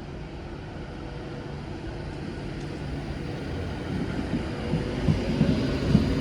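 Class 390 Pendolino electric train pulling out of the station, its traction motors and wheels making a rumble with a faint steady whine that grows steadily louder as it gathers speed.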